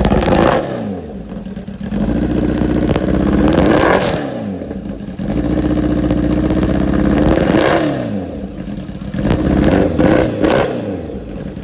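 Kawasaki Ninja H2R's supercharged inline-four being revved through its exhaust in repeated throttle blips: the revs spike and fall back three times, then two quick sharp blips near the end.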